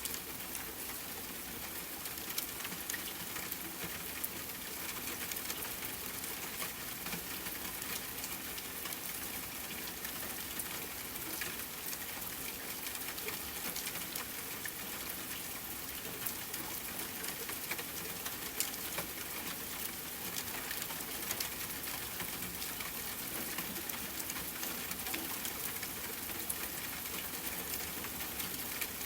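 Steady rain falling with a campfire crackling: an even hiss with scattered sharp pops and ticks.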